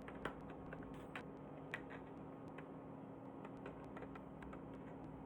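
Faint light clicks and taps of 3D-printed plastic chess pieces and board being handled, with a few sharper clicks in the first two seconds and fainter ones after, over a steady faint hum.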